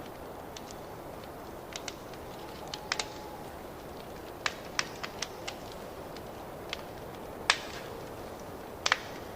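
Wood fire crackling in a fireplace: a steady low hiss with scattered sharp pops, the loudest about three-quarters of the way through and a quick double pop near the end.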